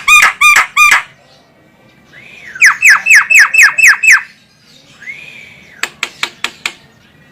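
Javan myna calling. A quick run of harsh, down-slurred notes is followed by a single arched note. Then comes a second run of about seven fast down-sweeping notes, another arched note, and a short series of sharp clicks near the end.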